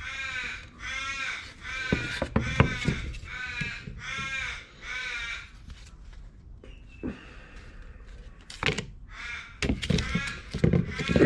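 A bird calling over and over in short calls, about six in the first five seconds and two more near the end, with a couple of sharp knocks in between.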